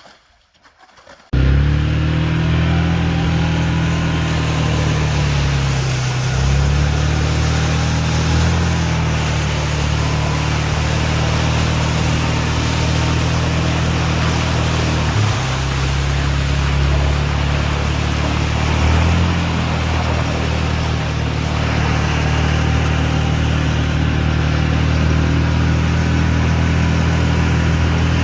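Can-Am quad (ATV) engine running under way, coming in abruptly about a second in, with its pitch dipping and picking up a few times as the throttle changes, over a steady rush of noise.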